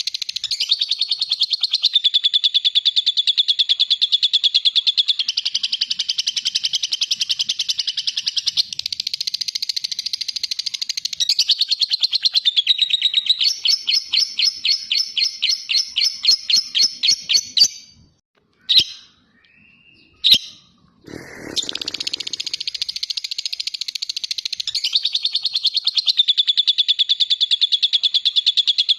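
Lovebird's long 'ngekek' song: a rapid, high-pitched chattering trill that runs on for many seconds. About thirteen seconds in it slows to separate chirps, breaks off for a few seconds with a couple of short calls and a brief low rustle, then the rapid trill starts again.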